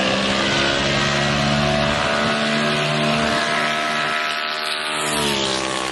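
Gas minibike engine running at high, steady revs, with its pitch dropping shortly before the end as it backs off.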